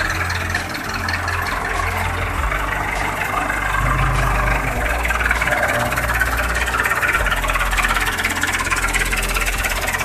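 Massey Ferguson MF 265 tractor's three-cylinder diesel engine running steadily, its firing heard as a rapid even clatter.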